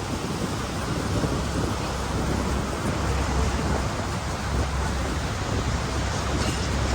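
Steady roar of Niagara Falls' falling and churning water, with wind buffeting the microphone in a heavy low rumble.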